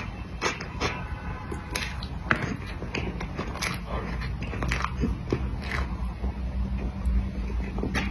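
Close-miked eating sounds from cream cake: soft, wet chewing with many irregular sharp mouth clicks, several a second.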